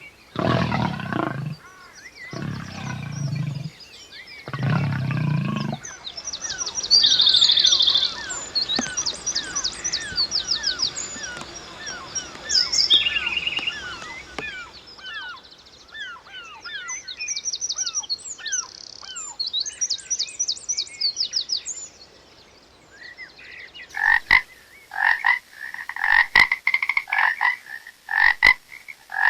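A sequence of wild animal calls. It opens with four deep, roar-like calls in the first six seconds, then a long chorus of rapid chirps and trills, then a run of repeated short calls near the end.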